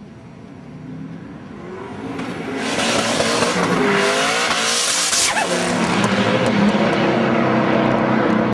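Twin-turbo Saleen Mustang's V8 revving up hard, with a loud rushing screech of rear tyres spinning for about three seconds, then the engine running on steadily near the end.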